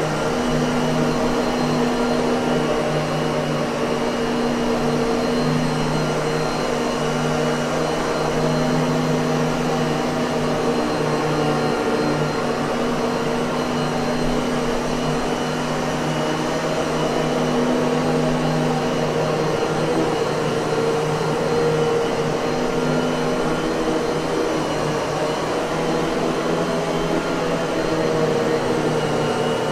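Miele vacuum cleaner running steadily at constant speed: a motor hum under an even rush of air.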